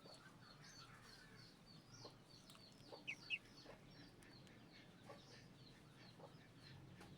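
Faint, rapid high-pitched peeping of a hatching Muscovy duckling, a few peeps a second, with two louder rising peeps about three seconds in.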